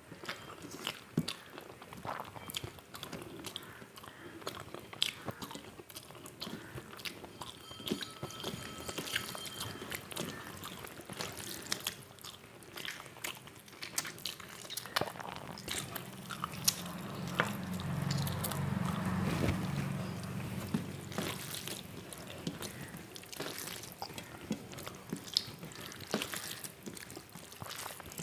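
Close-up eating sounds: a person chewing panta bhat (water-soaked rice) with fried vegetables and fish, with many wet mouth clicks and small crunches. A low hum joins in for a few seconds past the middle.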